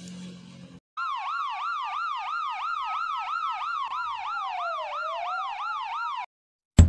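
Ambulance siren sound effect, a fast up-and-down yelp of about three sweeps a second over a slower wail. It starts about a second in and cuts off abruptly shortly before the end, when drum hits of music begin.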